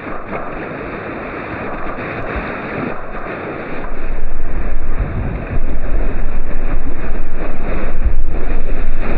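Rushing whitewater of a class III river rapid, a steady dense roar of water. About four seconds in it jumps much louder, with heavy low buffeting on the microphone.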